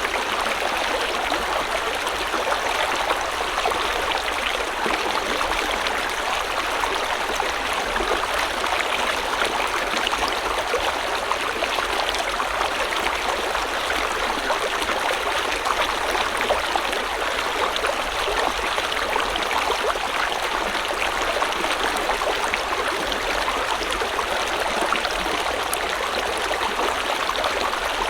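Shallow river or stream flowing steadily over rocks, a constant rushing and babbling of water.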